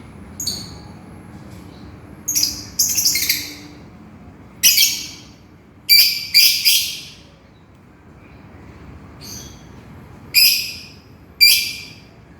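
Lovebird calling to its companion: about eight short, shrill, high-pitched screeches at irregular intervals, some in quick pairs.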